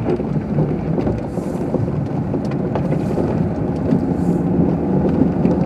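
A car's engine and tyres running as it drives along a snow-covered road, heard from inside the cabin as a steady, even rumble.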